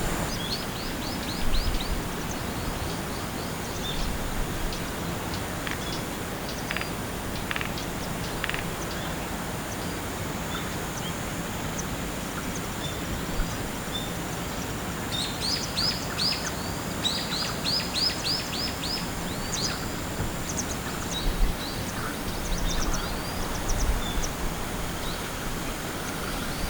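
A bird calling outdoors in bouts of rapid, short, high descending notes, several a second, with a few scattered chips between. Under it runs a steady outdoor background hiss and a faint, thin, high steady tone.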